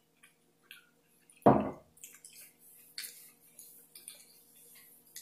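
Wet mouth sounds of a person eating: small smacks and clicks from chewing, with one short, louder mouth sound about a second and a half in.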